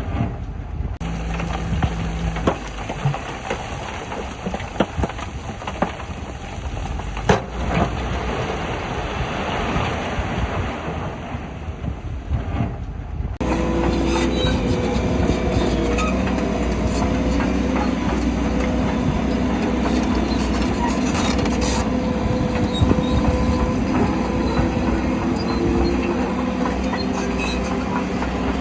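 Shantui crawler bulldozer working: diesel engine running, steel tracks clanking and squealing. About halfway through, the sound changes abruptly to a louder, steadier engine drone with a clear hum.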